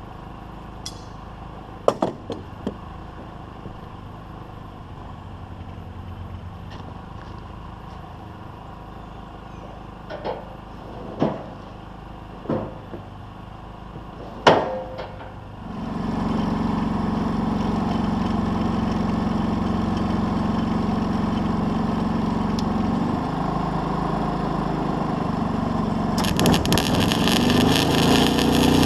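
A few scattered knocks and clanks, then about halfway through an engine comes on and runs steadily and loudly, with a hissing, rushing noise added near the end.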